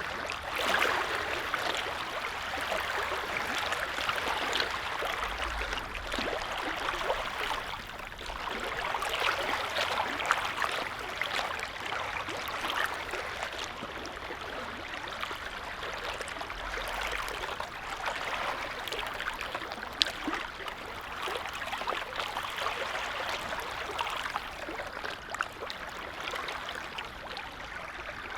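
Small lake waves lapping, a continuous light splashing and trickling that swells and eases every few seconds.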